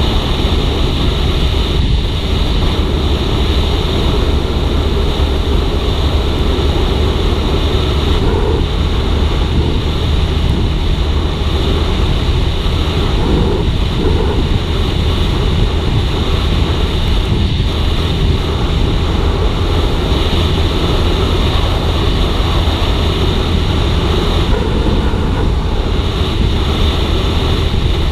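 Suzuki GSX-R150's single-cylinder engine running steadily at speed during a ride, mixed with a heavy, even rush of wind and road noise.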